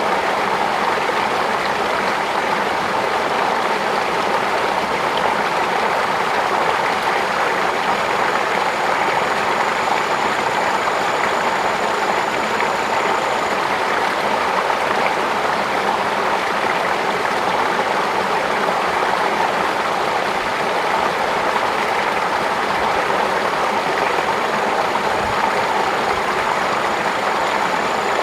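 Steady rush of flowing water, even and unbroken. A faint, thin high tone comes in for a few seconds in the middle and again near the end.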